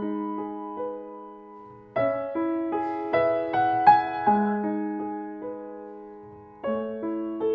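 Slow, gentle solo piano music: short phrases of notes that ring and die away, with a new phrase starting about two seconds in and another near the end.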